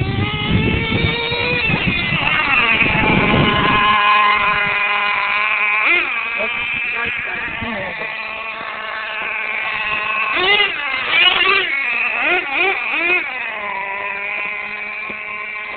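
Small engine of a radio-controlled monster truck running at high revs, its whine rising and falling in pitch as the throttle is worked, with several quick revs in the later part.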